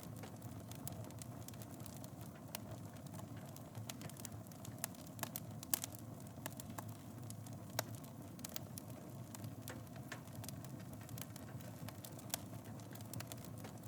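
Fire burning in a fireplace: a steady low rush of flames with frequent sharp crackles and pops, a few louder pops around the middle.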